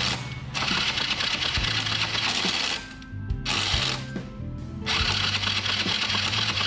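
Motorbike electric starter cranking the engine in three runs with short pauses between them. The engine spins freely because the spark plug is out for a spark test.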